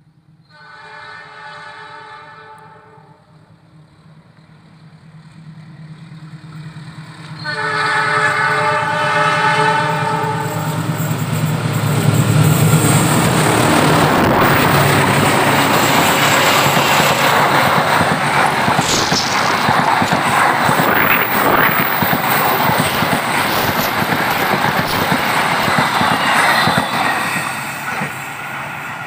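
KAI diesel locomotive approaching with a passenger train, sounding two long horn blasts, the first about a second in and the second about eight seconds in, over a growing engine rumble. The locomotive and its coaches then pass close by with loud wheel and rail noise, easing slightly near the end.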